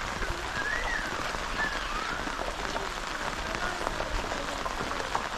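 Heavy rain falling: a steady hiss of rain with the dense patter of drops striking close by.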